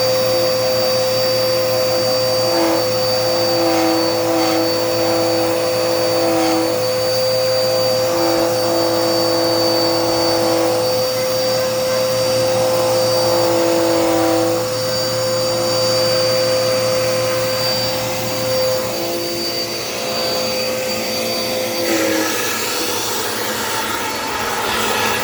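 Dirt Devil Power Max vacuum cleaner running steadily with a whine over its rushing noise; the whine cuts off about three-quarters of the way through and the sound changes.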